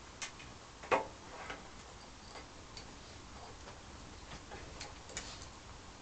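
Scattered light clicks and taps at an irregular pace, roughly one a second, the sharpest about a second in: a blue-and-gold macaw clicking and tapping with its beak.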